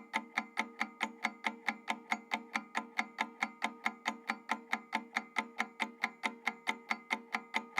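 Rapid, even clock-like ticking, about five ticks a second, over a steady held tone, as from a timer sound effect.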